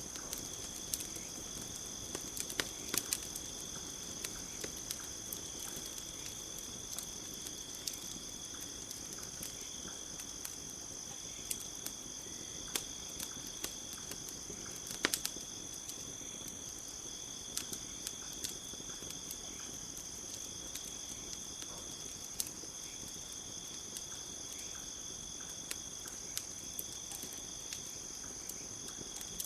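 Crickets chirping steadily with a campfire crackling over them: irregular sharp pops and snaps, a few louder ones about three seconds in and halfway through.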